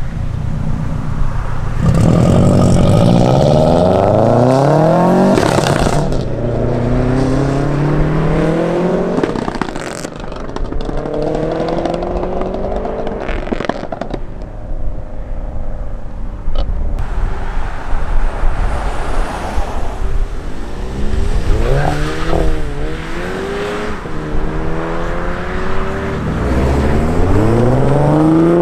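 Modified cars pulling away one after another, each engine revving up so its pitch climbs and drops back between gear changes, several times over, with a few sharp cracks in between.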